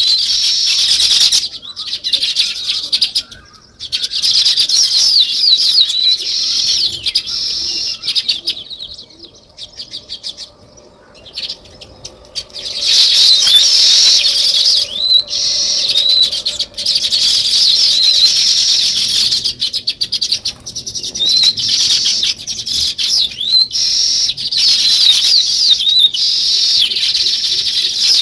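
A flock of small songbirds chirping in a dense, overlapping chorus of quick, high notes. It thins to a few scattered calls for about three seconds, roughly a third of the way in, then picks up again.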